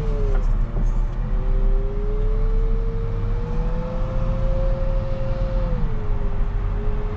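Volvo rubber-tire wheel loader's diesel engine running under load, a low rumble with a steady whine that rises slowly in pitch, then drops off about six seconds in.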